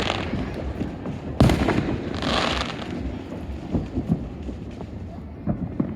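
Fireworks going off: one sharp, loud bang about a second and a half in, then a hissing crackle, then scattered smaller pops and thuds.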